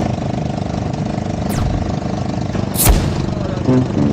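Off-road buggy engines running steadily. Two sharp knocks cut through it, the louder one nearly three seconds in.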